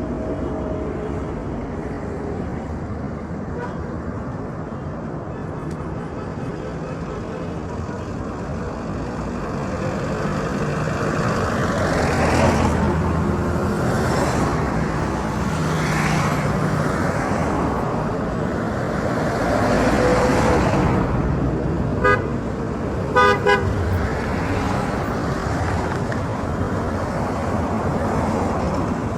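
Road traffic: a steady rumble of vehicles, swelling as several pass. A car horn toots once about two-thirds of the way in, then twice in quick succession a second later.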